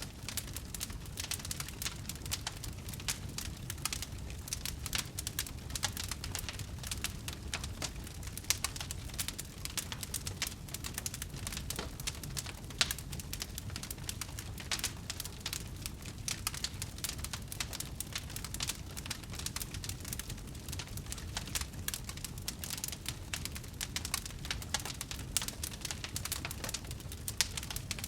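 Wood fire burning, crackling steadily with many small irregular pops over a low rumble of flames.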